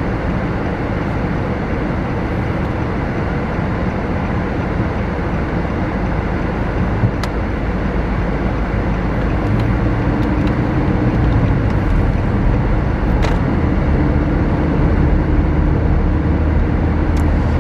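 Car engine and road noise heard from inside the cabin while driving, a steady low rumble whose engine hum grows a little stronger about halfway through.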